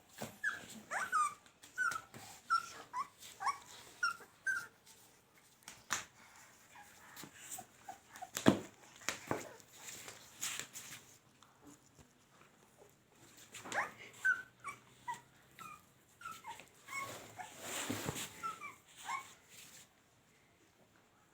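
Puppies whimpering, many short high squeaks in two bouts, with a few knocks and scuffles in the quieter stretch between them.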